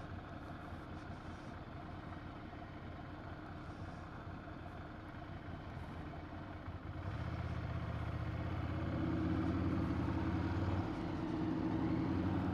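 Ducati 797's air-cooled L-twin engine running at a steady, low speed, heard from the rider's position; it grows louder about seven seconds in.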